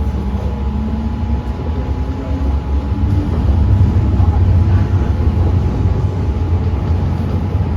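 MTR M-Train running between stations, heard from inside the car: a steady low rumble of wheels on rail with a faint motor hum, swelling louder for a few seconds midway.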